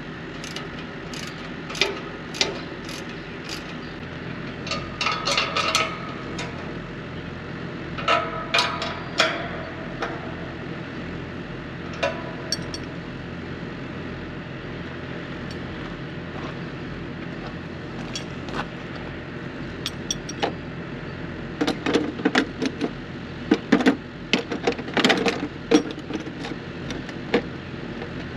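Hand tools and metal exhaust parts clinking and clanking on and off as the straight-pipe exhaust section is fitted back onto a Peterbilt semi truck, a few hits ringing briefly, with a busy run of clanks near the end. A steady low hum sits underneath.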